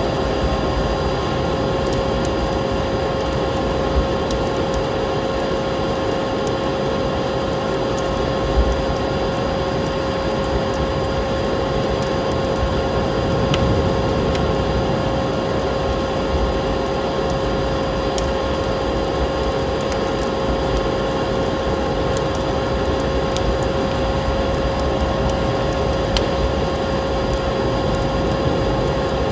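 Wood fire crackling in a fireplace, with scattered sharp pops, over a steady, even noise carrying a constant humming tone.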